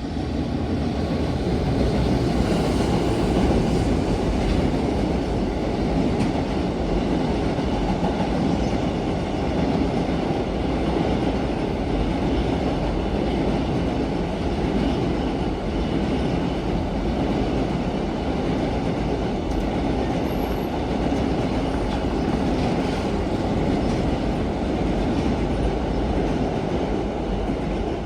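A long freight train passing on the Sanyo Main Line, its wheels running on the rails in a steady, loud rush. The sound comes up sharply at the start and dies away only at the very end.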